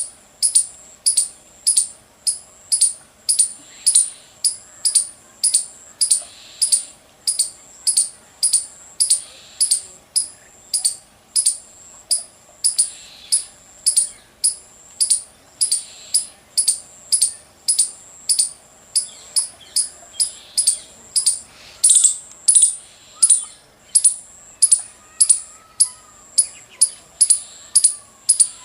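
A small creature's high, sharp chirp, repeated evenly about twice a second without a break.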